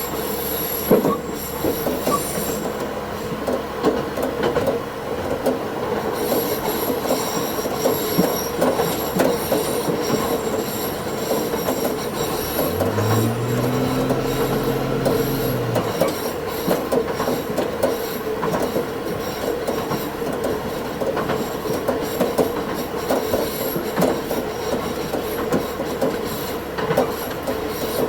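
Diesel railcar running along the track, its wheels squealing and the rails creaking, with frequent clicks from the rail joints. About halfway through, a low tone swells and then fades.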